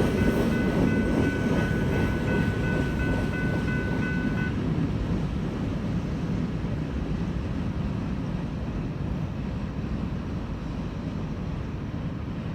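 Freight train cars rolling past with a steady rumble that slowly fades. A grade-crossing electronic bell rings over it and cuts off about four and a half seconds in.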